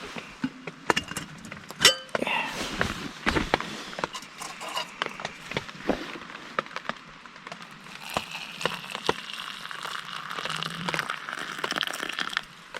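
Metal camp cookware clinking and knocking as coffee is made, with a steady hiss for a few seconds in the second half.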